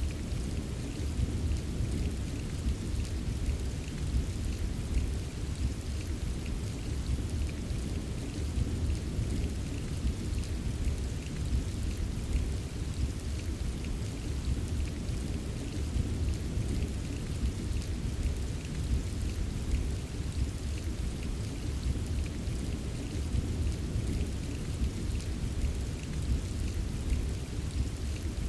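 Steady rain, with a deep constant rumble underneath and fine scattered drop ticks on top.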